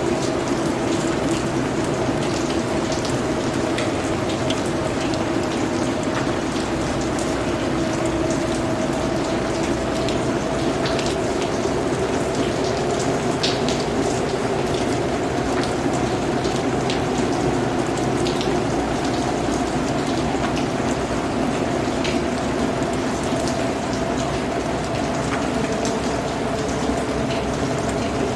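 Steady rainfall, with individual drops ticking sharply here and there over the even hiss of the rain, and a low steady drone underneath.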